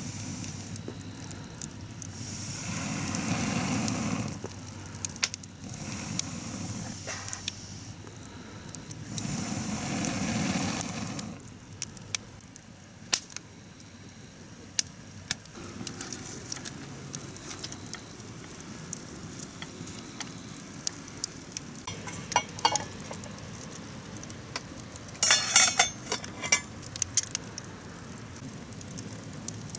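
Food sizzling in a pot over a wood campfire, swelling loud twice, with the fire crackling throughout and a few metallic clinks of utensils against the pot near the end.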